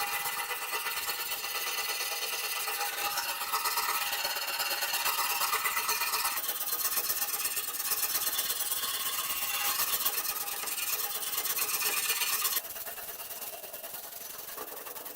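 A power tool abrading rust off the mini dirt bike's metal frame: a continuous high scraping whine. The sound changes abruptly about halfway through and drops in level near the end.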